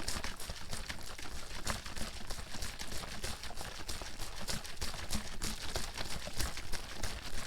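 Water sloshing in a plastic bottle shaken steadily by hand, with rapid irregular splashes and knocks.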